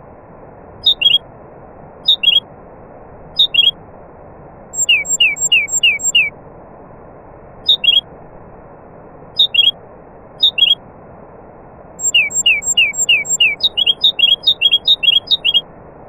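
A songbird calling in short downward-sliding whistled notes, some in pairs and some in quick runs of five or more. A steady rushing background noise runs under it.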